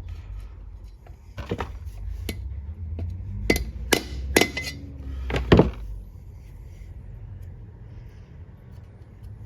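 A hammer tapping a tube driver to seat a new input shaft seal into a ZF 8HP70 automatic transmission: about six sharp metallic knocks with a short ring, the loudest about five and a half seconds in, then stopping.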